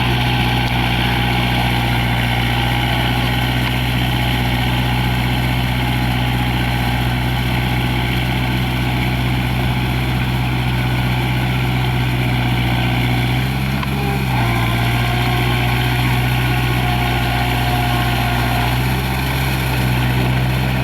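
Kubota tractor's diesel engine running steadily as the tractor works a flooded paddy field, with a brief dip and change in engine note about two-thirds of the way through.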